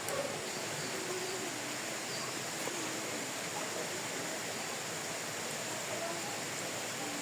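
Steady rushing noise of flowing water, like a stream.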